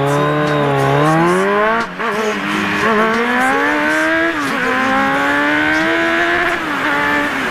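Motorcycle engine accelerating hard through the gears: its pitch climbs steadily, then drops sharply at each upshift, about 2 s in and again about 4.5 s in, before climbing once more.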